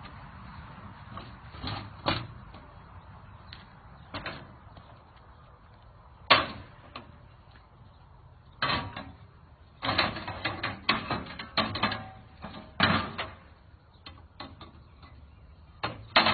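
Motorcycle loading ramp being handled and set in place: a series of irregular knocks and clunks, the loudest about six seconds in, with a busy run of them between about ten and thirteen seconds.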